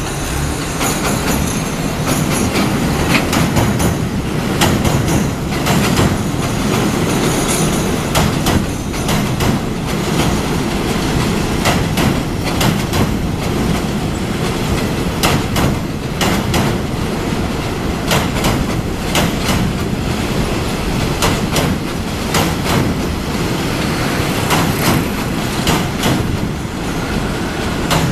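A train running over a railway bridge: a continuous heavy rumble of wheels on rail, with many sharp clacks as the wheels pass over the rail joints.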